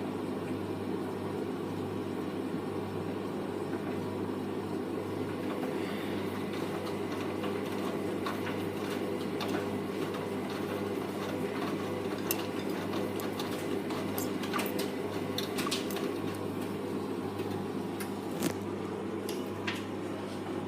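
Hoover Vision Tech VT 914 D22X washing machine running a 40°C mixed wash: the drum turning with a steady motor hum, and from about six seconds in, scattered light clicks and clinks of the load against the drum.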